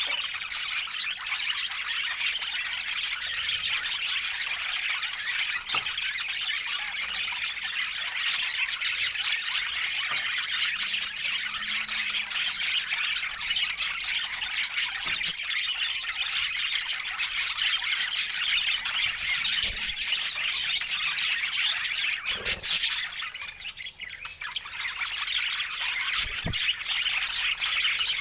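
Budgerigars chattering and squawking continuously in a dense, high-pitched flock chatter, with a brief lull about three-quarters of the way through.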